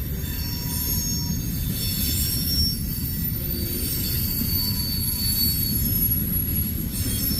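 Freight train cars rolling past with a steady low rumble of wheels on rail, over which the wheels give off several thin, high-pitched squealing tones that come and go.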